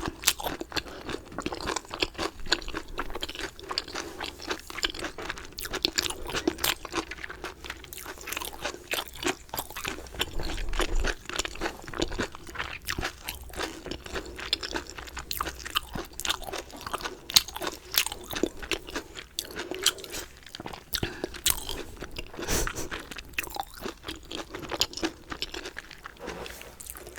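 Close-up crunching and chewing of chicken: irregular crisp crackles as mouthfuls are bitten and chewed, with no pause through the whole stretch.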